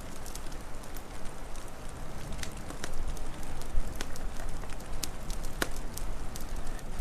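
Wood fire crackling, with irregular sharp pops and snaps scattered over a steady low rushing noise; one of the louder pops comes just past the middle.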